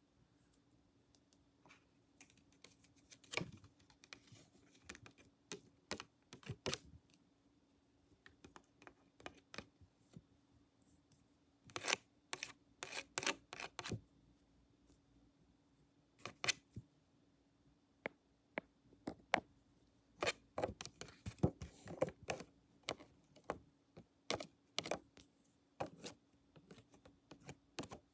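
Close-miked ASMR trigger sounds: irregular clicks, taps and light scratches from props or hands working near the microphone, sparse at first and then in dense flurries, over a faint steady hum.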